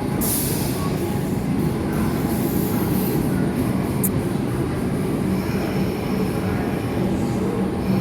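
Melbourne suburban electric train running on the rails, wheels squealing, with a brief sharp high squeal about four seconds in.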